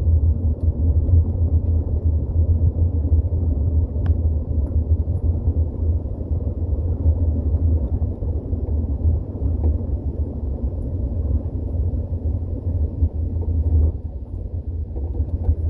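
1979 Ford Granada driving, a steady low rumble of engine and road noise, easing off slightly near the end.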